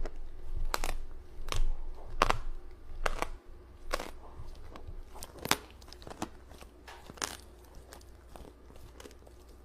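Repeated sharp crunches, about one a second at first, then fewer and fainter in the second half.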